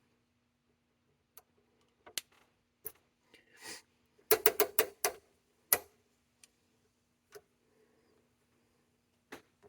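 Scattered small clicks and taps of an Allen wrench and metal knobs being worked loose from an oscilloscope's front panel, with a quick run of about five sharp clicks around the middle and another click shortly after.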